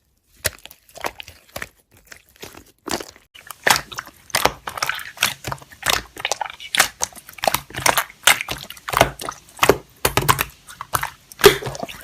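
Slime being handled: squeezing and poking give a run of sharp clicks and crackling pops. They come sparsely at first and grow dense and steady after about three and a half seconds.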